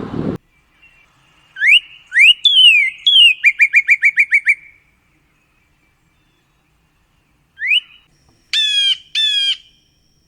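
Bird calls: a few quick rising whistles and a fast trill of about eight notes, then after a pause a rising whistle and two harsh, buzzy calls.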